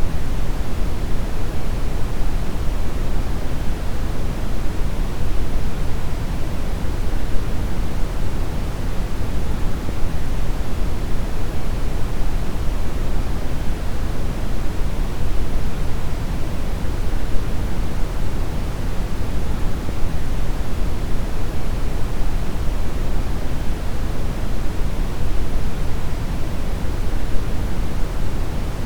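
Steady brown noise: a deep, even rushing hiss, strongest in the bass and falling off toward the treble, unchanging throughout.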